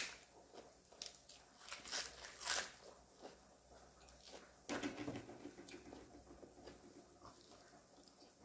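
A person eating: several sharp crunches from biting crisp lettuce, a louder bite about halfway through, then quieter chewing.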